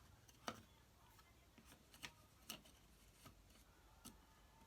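Near silence with a handful of faint, sharp clicks and taps, the loudest about half a second in, as small model parts are picked up and set down.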